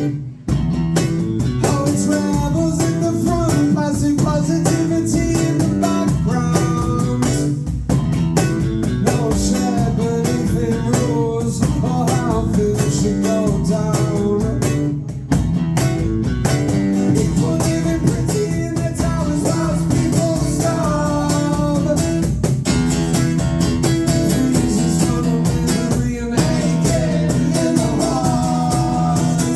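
Live rock band playing a song: guitars over bass and drums, loud and continuous, with a brief dip about half a second in.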